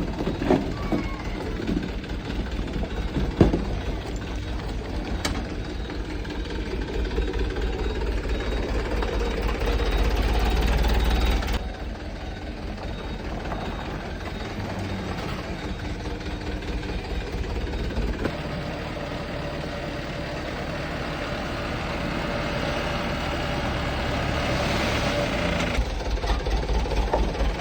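Dump truck's diesel engine running with a steady low, pulsing rumble while unloading sand. It is louder for the first eleven seconds or so, drops suddenly, then builds again near the end. A sharp knock comes about three seconds in.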